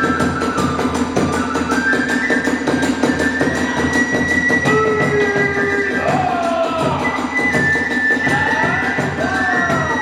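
Kagura hayashi accompaniment: drums beating a quick, steady rhythm under a high, held flute melody, with sliding, swooping tones weaving through the middle.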